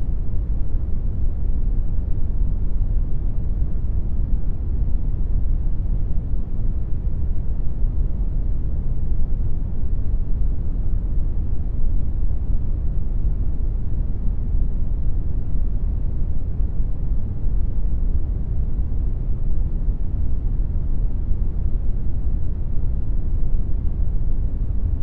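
Steady synthetic brown noise: a deep, even rumbling hiss, strongest in the bass and fading toward the treble.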